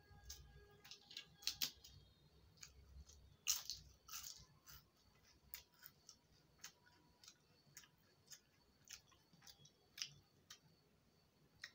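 Faint close-up chewing of soft rice and potato-pea curry: wet lip smacks and small mouth clicks, irregular, a few louder ones about one and a half and three and a half seconds in.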